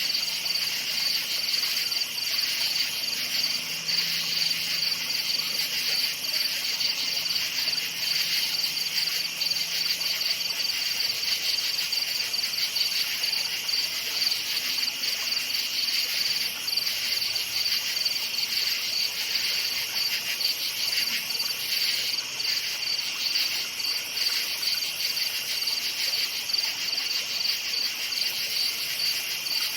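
A chorus of crickets chirping steadily at night, a dense high-pitched pulsing trill that never lets up.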